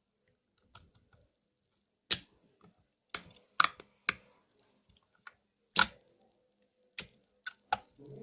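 Slime being squeezed and stretched, its trapped air pockets popping in a string of sharp, irregular clicks, the loudest about two, three and a half and six seconds in.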